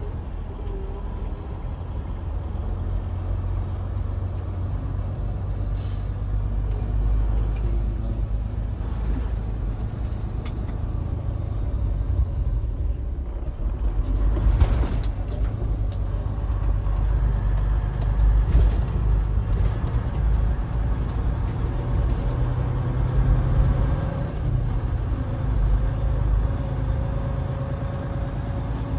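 Semi-truck driving, heard from the cab: a steady low engine and road rumble, with a brief hiss about halfway through.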